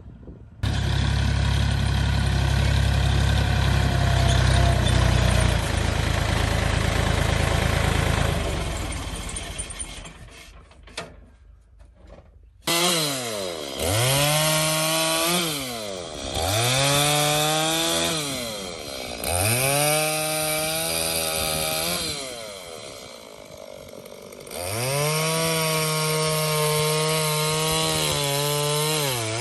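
A chainsaw cutting firewood logs, its engine pitch dropping and climbing again about four times as the chain bites into the wood and frees. Before that, for the first several seconds, a loud low rumbling noise fades away.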